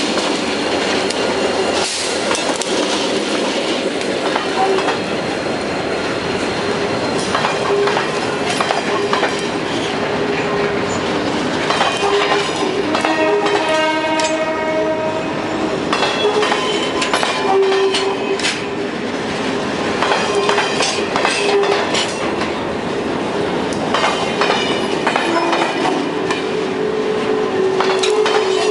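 Container freight train behind an EMD GT22CW diesel locomotive rolling past: a steady rumble of wagons, wheels clicking over rail joints, and on-and-off wheel squeal. A brief pitched tone sounds about halfway through.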